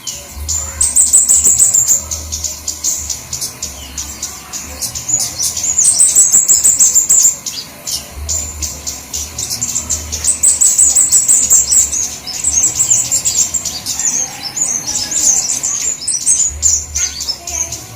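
Flowerpeckers calling in a lure recording: a dense stream of rapid, very high-pitched chirps and twittering, busy and nearly unbroken with brief lulls. A low hum sits underneath in stretches.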